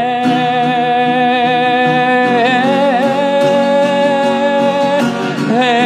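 Worship music: a singer holds long wordless notes over an instrumental accompaniment, moving to a new note with a waver about two and a half seconds in and again near the end.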